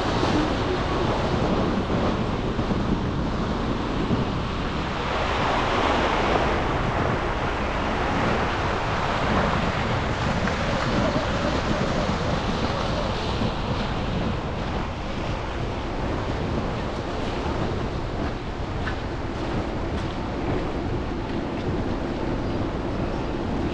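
Steady rushing hiss of tyres on wet, slushy city streets with traffic around, swelling for a couple of seconds about six seconds in as a vehicle passes.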